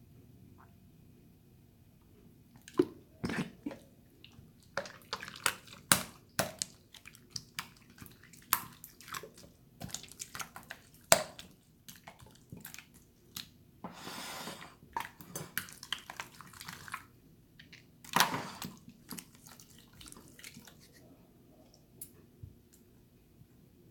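Water slime being squished and splashed by hand: irregular wet clicks, pops and slaps, with a couple of longer sloshing splashes. It starts after a short quiet moment and thins out near the end.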